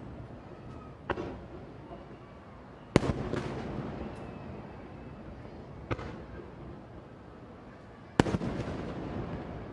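Aerial fireworks shells bursting overhead: five sharp bangs, the loudest about three seconds in and just after eight seconds, each trailing off into a rolling rumble and echo.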